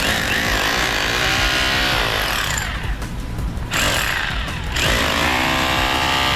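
A power tool running hard, its pitch sagging and rising as if under load; its high-pitched part drops out briefly about three seconds in, then returns.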